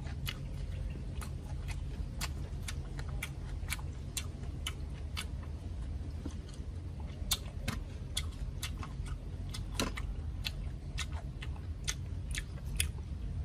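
A person chewing crispy deep-fried crocodile head meat. Irregular sharp crunches and wet mouth clicks come a few times a second over a low steady hum.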